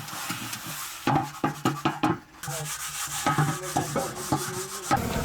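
Firewood being handled: wood rubbing and scraping, broken by a quick run of short knocks about a second in and another run near the end.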